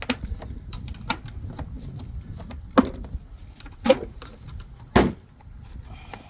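Tools and metal parts being handled: about five sharp knocks and clinks spread over several seconds, over a low steady rumble.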